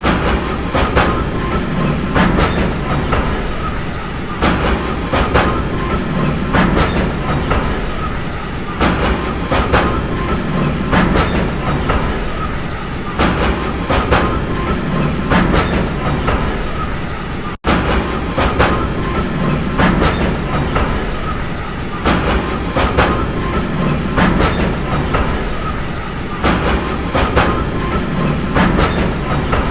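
A train running on rails: a steady rumble with the wheels clacking over rail joints in a regular, repeating rhythm, the clacks often coming in pairs. The sound cuts out briefly about two-thirds of the way through.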